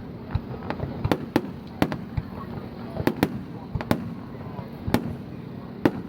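Fireworks display going off: about ten sharp bangs at uneven intervals, some in quick pairs.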